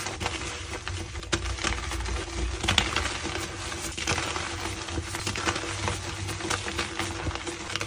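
Blocks of gym chalk being crushed and crumbled, a dense run of small crunches and crackles with sharper snaps here and there.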